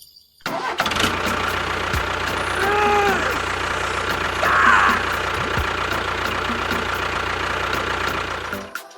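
A small engine starts abruptly and runs steadily at idle, cutting off shortly before the end. A short tone rises and falls about three seconds in.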